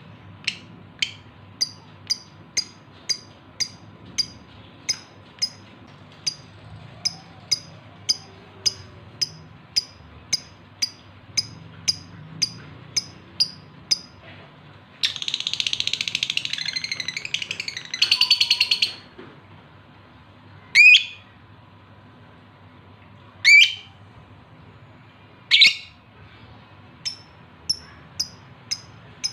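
Male lovebird in breeding condition calling for a female: short high chirps repeating about twice a second, a few seconds of rapid chattering about halfway through, then three loud single calls before the short chirps start again.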